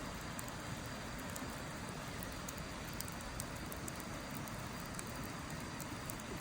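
Wood fire burning in a Snow Peak Takibidai L fire pit: a steady hiss with scattered small crackles and pops.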